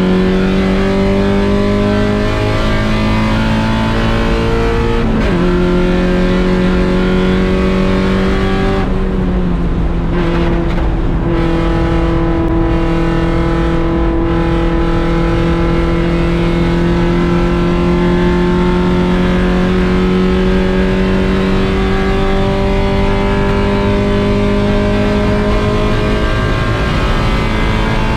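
1.6-litre Mazda Miata four-cylinder race engine running hard. Its pitch jumps and drops with gear changes in the first ten seconds or so, then climbs slowly and steadily through one long pull.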